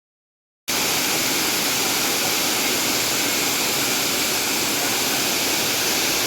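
Waterfall: falling water making a steady, even rush that starts suddenly about a second in.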